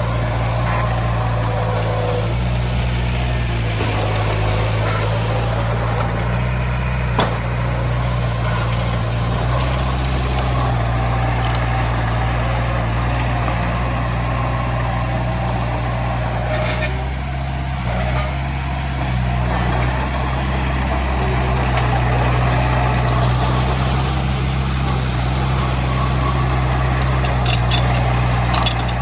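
Heavy diesel construction machinery running steadily: a continuous low engine drone, with a sharp clank about seven seconds in and the engine easing slightly in the middle before picking up again.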